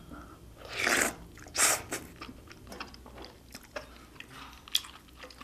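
A person eating spicy beef soup with rice: two short, louder mouth sounds about one and nearly two seconds in, then soft chewing with small clicks.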